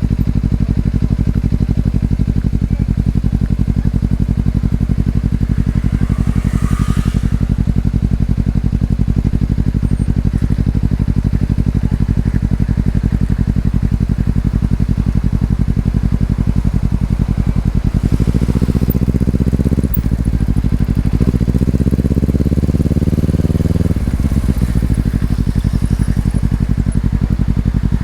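Honda CBR250RR's parallel-twin engine through an Over Racing aftermarket exhaust, running at a steady low note, then about eighteen seconds in revving up as the bike pulls away, with a brief dip at a gear change, before settling back to a steady note.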